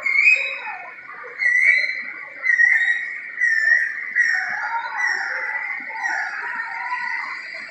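A bird calling loudly again and again, about once a second, each call short and pitched with overtones.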